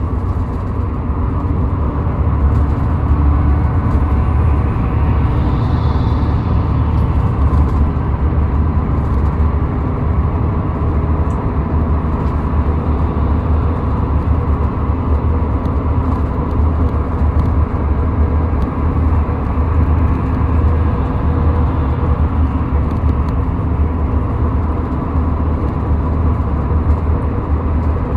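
Car driving at a steady speed on a highway: a continuous low rumble of tyre and engine noise that stays even throughout.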